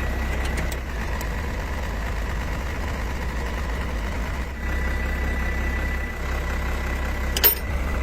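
Truck engine idling steadily, with one sharp click near the end.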